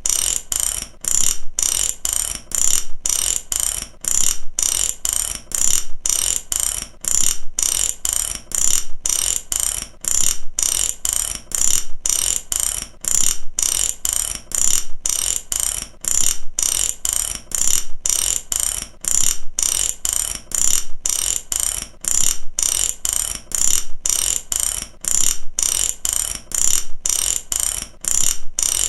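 Mechanic's ratchet wrench clicking steadily as it is worked back and forth, a rapid even train of sharp metallic clicks in repeating strokes about every two seconds.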